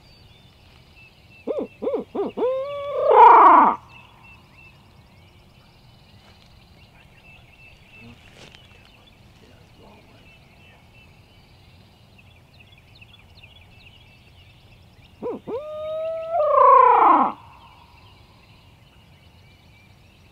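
Owl hooting twice, about fourteen seconds apart: each call is a few short hoots followed by a longer hoot that slides down in pitch.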